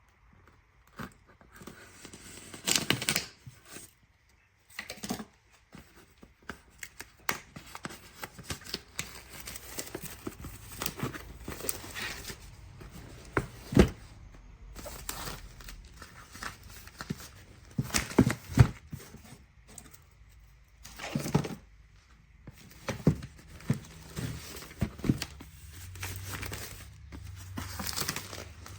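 Packaging being handled: crinkling and tearing rustles with many scattered clicks and knocks, in a small room.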